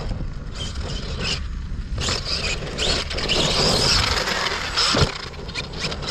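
Large RC truck's brushless motor whining as it speeds up, with tyres scrabbling over loose dirt and gravel. Several rising whines come in the middle, and a single sharp knock follows about five seconds in.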